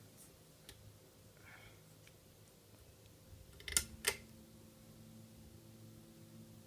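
Westinghouse/Canarm Turbo Swirl ceiling fan switched on: two sharp clicks of its switch a third of a second apart, a little before the middle, then the motor's electrical hum starts and holds steady, pitched slightly below a 60 Hz mains hum because the power comes from a generator.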